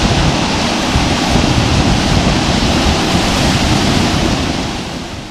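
Heavy hail pounding down in a dense, loud roar of countless impacts, easing off near the end.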